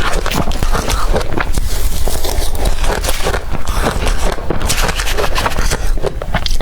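Blender-crushed ice being bitten and chewed close to the microphone: a dense, irregular run of crackly crunches with no pauses.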